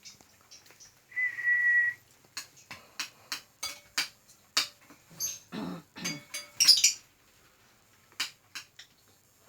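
A male bird in breeding condition calling: one steady held whistle about a second in, then a run of short sharp chips and clicks, loudest near the end.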